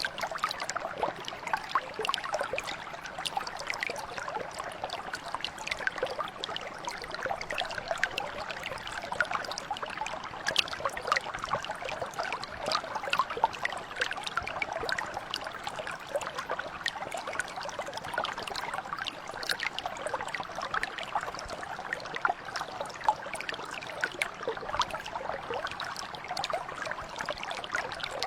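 Small mountain brook flowing: a steady water babble with many small splashes and trickles throughout.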